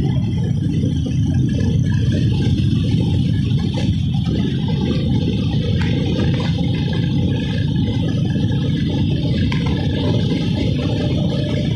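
Motorcycle riding along at a steady speed: an even rumble of engine and road noise with no changes.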